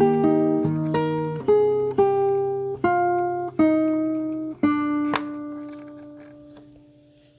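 Acoustic guitar ending a song: a run of strummed chords about one every second, then a last chord about five seconds in that rings out and fades away.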